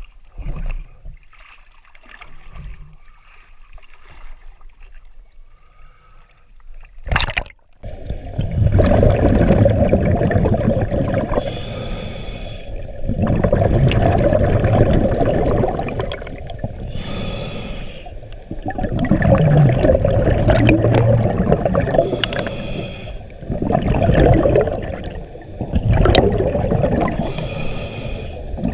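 A sharp splash about seven seconds in. After it, the underwater sound of a scuba diver breathing through a regulator: a loud bubbling rush with a breath cycle about every five seconds.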